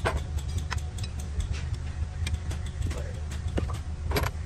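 An engine running steadily at idle, a low rumble, with scattered sharp metallic clicks and knocks over it.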